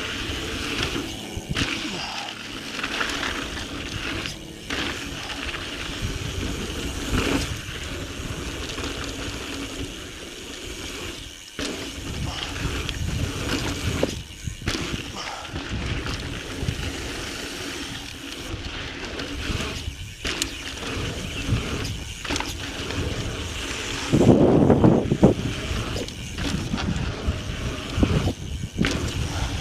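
2017 Intense Tracer mountain bike being ridden on a dirt singletrack trail: an uneven rush of tyre and trail noise with scattered knocks, and a louder stretch near the end.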